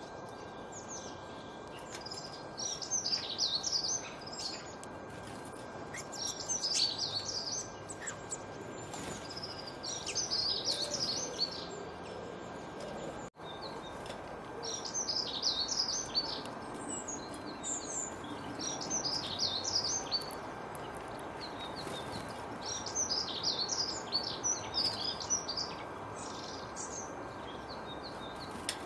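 Songbird singing short phrases of quick, high chirps every few seconds over a steady background hiss, with a brief break about thirteen seconds in.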